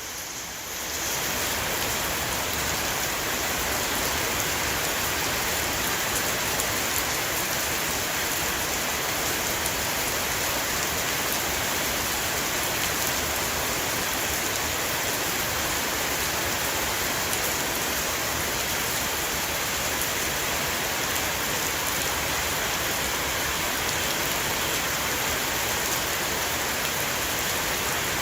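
Heavy rain shower falling on a roof: a dense, steady patter of drops that fades in over the first second or so.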